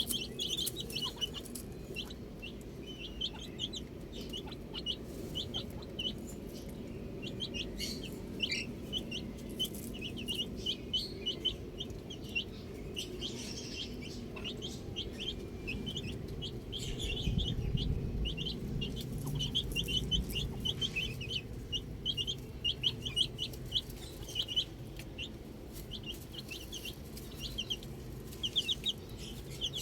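A flock of baby chicks peeping steadily: many short, high peeps in quick succession. Underneath is a low rumble that swells for a few seconds past the middle.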